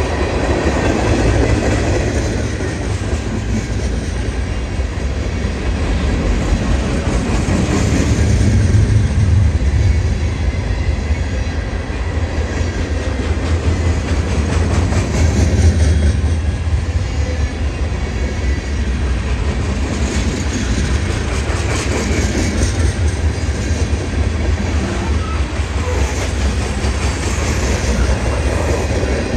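Freight train rolling past: a continuous rumble of railcars with the clickety-clack of wheels over rail joints, swelling and easing in loudness every several seconds.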